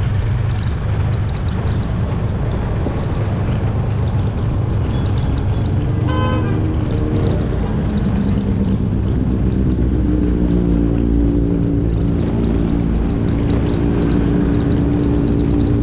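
Motorcycle riding through city traffic: a heavy low rumble of engine and wind. A vehicle horn toots briefly about six seconds in, and from about seven seconds a steady engine hum sits over the rumble.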